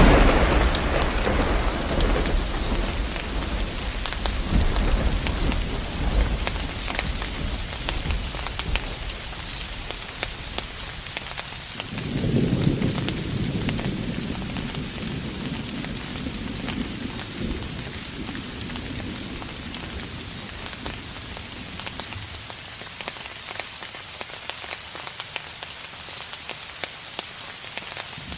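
Steady rain falling, with many fine drop ticks, and distant thunder: a low rumble dying away over the first few seconds, then another peal about twelve seconds in that rolls on and fades out slowly.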